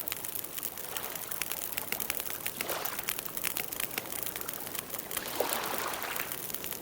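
Campfire burning, with many sharp crackles and pops and soft hissing swells that rise and fade about every two seconds.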